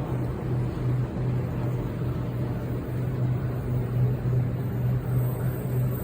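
Low steady hum and noise from a Sydney Trains Waratah electric train standing at a station platform.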